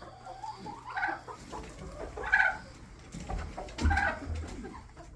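Laying hens clucking, three or four short calls about a second apart, with low rumbling handling noise underneath.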